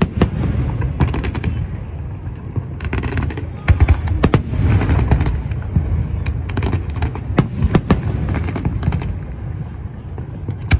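Fireworks show: repeated booms from aerial shells with clusters of sharp crackling reports, strongest around the middle of the stretch.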